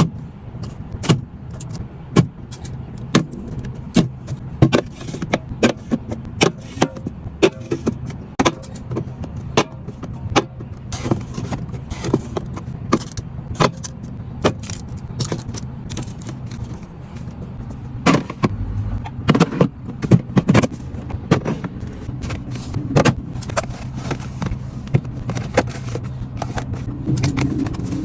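Irregular clatter of food packages, plastic containers and other items being handled and put away, many sharp clicks and knocks, over a steady low hum.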